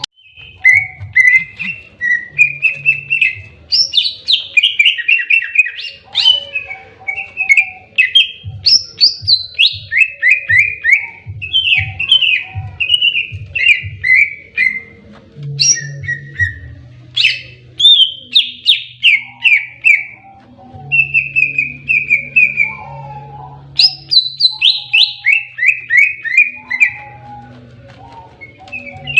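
Green leafbird (cucak ijo) singing its loud aggressive 'fighting' song: quick runs of downward-sliding whistled notes, phrase after phrase with hardly a pause. A low steady hum runs beneath.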